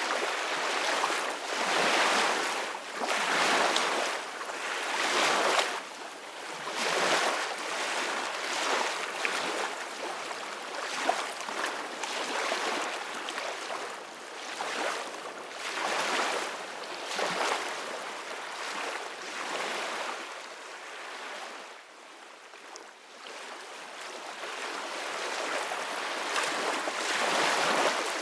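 Ocean surf washing in: a steady hiss of waves swelling and fading every second or two, easing off about two-thirds of the way through and building again near the end.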